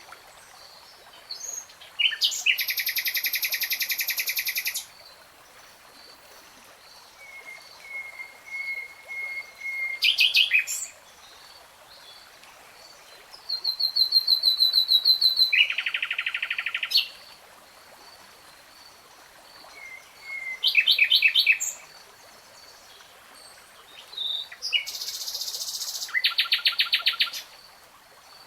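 A songbird singing in separate phrases a few seconds apart: fast trills and rapidly repeated notes, with one long steady whistle that breaks into quick notes about ten seconds in.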